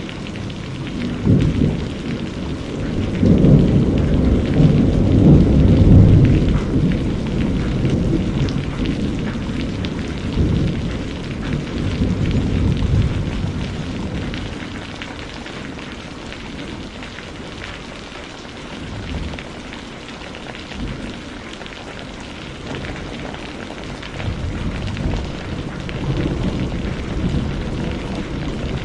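Steady rain with rolling thunder. A long low rumble builds about a second in, is loudest a few seconds later and slowly dies away about halfway through; a softer rumble returns near the end.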